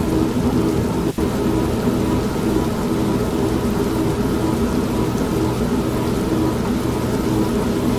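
Steady heavy rain with rumbling thunder, mixed with the running hum of an old manual washing machine. There is a very brief dropout about a second in.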